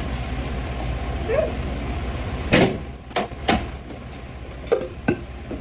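Several sharp knocks and clacks of kitchen things being handled and set down on a counter, about five in all over the last three seconds, over a low rumble in the first half.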